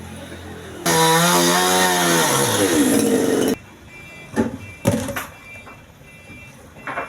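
A power tool cutting wood for about three seconds, its motor pitch dropping under load, then cutting off abruptly. A few light knocks follow.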